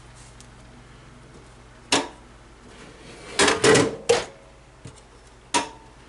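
Knocks and a short clatter of hard objects being handled and set down: one knock about two seconds in, a quick run of several knocks a little past halfway, and another single knock near the end.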